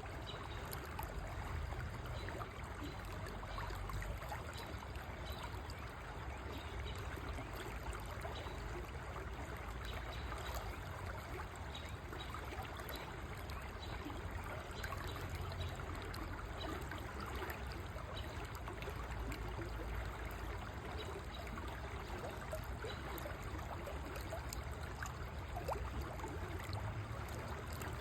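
A river flowing steadily, an even rush of moving water with no break or change.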